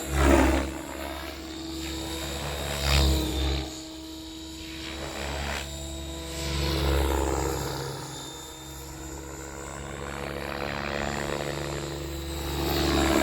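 XL Power 550 electric RC helicopter flying 3D aerobatics: a steady rotor and motor hum with blade noise, swelling louder several times, most strongly just after the start and near the end, as it passes close.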